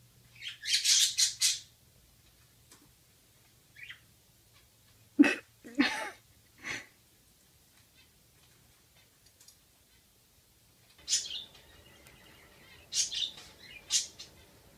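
Pet parrot calling in short high chirps and squawks: a quick cluster near the start, a few sharper calls around the middle, and more chirps near the end, with quiet gaps between.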